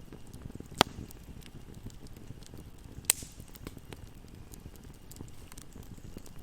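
Fire burning in a fireplace: a low, fluttering rumble of flames with a constant scatter of small crackles, and two sharp loud pops, one about a second in and another about three seconds in.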